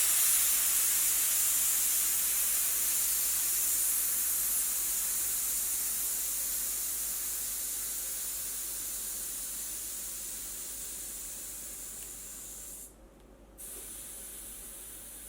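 Air hissing out through the valve of a Begode EX electric unicycle's Kenda tyre as it is deflated, slowly fading as the pressure drops. It cuts out briefly about thirteen seconds in, then carries on more faintly.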